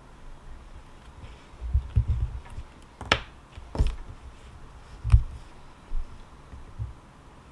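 Handling noises at a desk: several dull thumps and two sharp clicks, the clicks about three and four seconds in.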